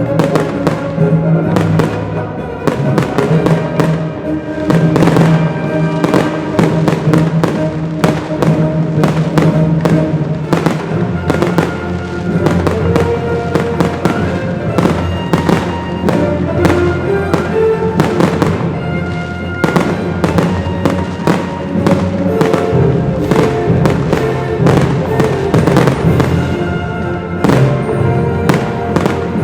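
Fireworks going off in rapid, dense bangs, over music with sustained tones.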